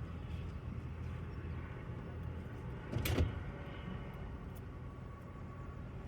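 Low steady rumble of a vehicle, with a single sharp thump about three seconds in.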